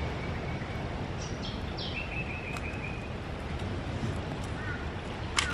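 Birds calling over a steady low background noise: a few short high chirps, then a wavering whistled call about two seconds in. A single sharp click near the end.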